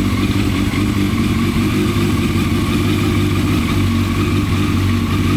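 Yamaha FZS600 Fazer's inline-four engine idling steadily.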